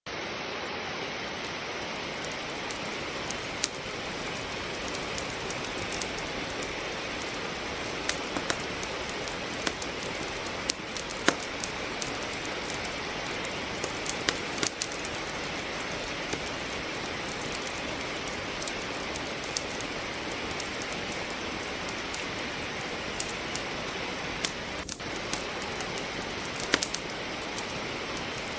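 Steady rain hiss with a wood fire crackling in a fireplace: irregular sharp pops and snaps of burning logs scattered over the rain, a few of them louder.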